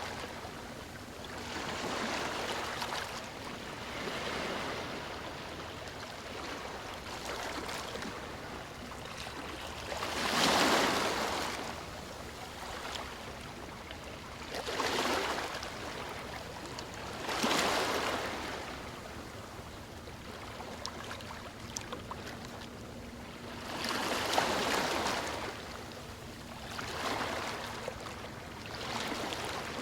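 Gentle ocean waves lapping on a shore, each wash swelling and fading every few seconds over a steady background hiss of water.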